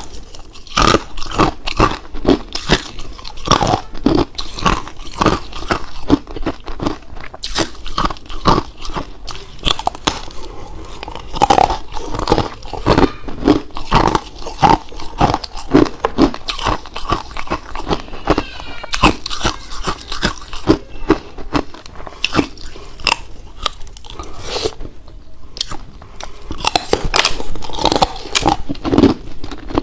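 Ice being bitten and chewed close to the microphone: dense, irregular crunching, with a brief lull a little before the end.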